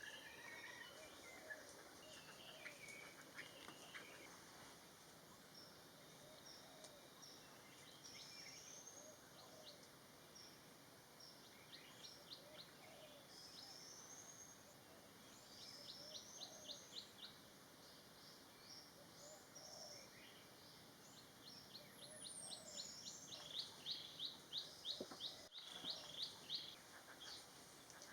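Faint chorus of small birds chirping and twittering, with a falling whistle and then a quick run of rapid high notes in the last few seconds.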